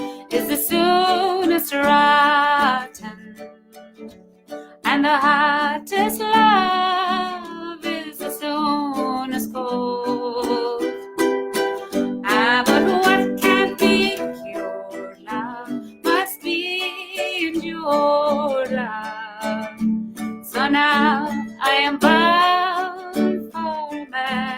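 A woman singing a verse of an Irish folk song over a strummed plucked-string instrument, in phrases of a few seconds with short gaps between them.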